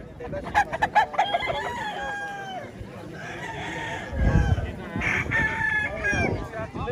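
Several gamecock roosters crowing, their drawn-out calls overlapping one another.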